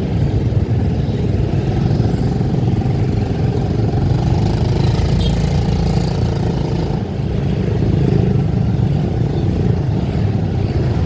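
Motor vehicle running steadily along a road, its engine and road rumble filling the low end.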